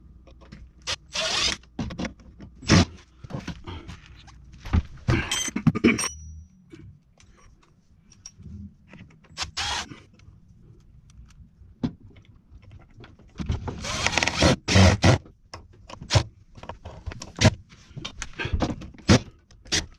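Cordless drill/driver driving sheet-metal screws into a refrigerator mounting bracket in several short bursts, with sharp knocks and clicks of handling in between.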